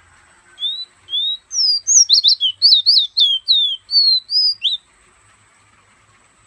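A pet fire red (ruddy-breasted seedeater) singing close up: a phrase of about fifteen quick, clear whistled notes, each sliding down in pitch. The song starts about half a second in, comes fastest in the middle, and stops near five seconds.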